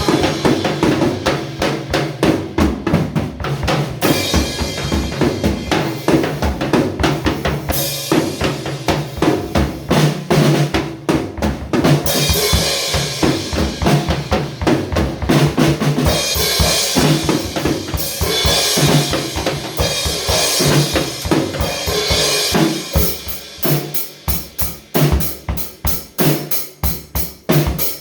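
Instrumental band music driven by a drum kit, with bass drum and snare hits in a busy pattern. About 23 seconds in it thins out to evenly spaced drum hits.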